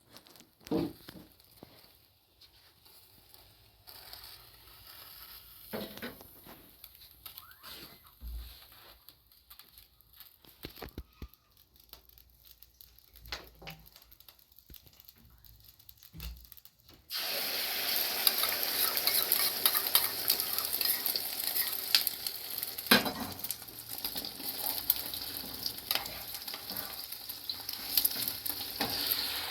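Food frying in hot oil in a pan: after a quiet stretch of scattered knocks and handling clicks, a loud crackling sizzle starts suddenly about two-thirds of the way in and keeps going, with a few sharper pops.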